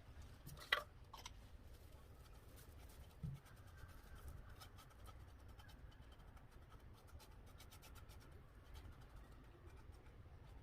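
Near silence: quiet room tone with one sharp click under a second in, a soft low thump about three seconds in, and faint scattered ticks.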